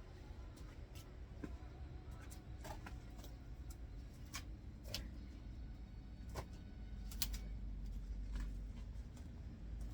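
Faint, irregular knocks and clacks of oak firewood pieces striking one another as they are handled, about eight over several seconds, over a low steady rumble.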